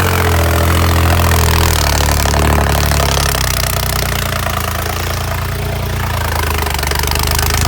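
Tractor diesel engine running loudly. Its speed shifts in the first couple of seconds, then it runs steadily.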